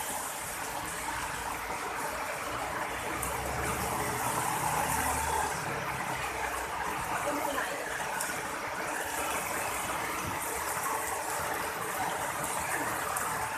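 Heavy rain falling steadily, a continuous hiss, with a low rumble swelling and fading about four to six seconds in.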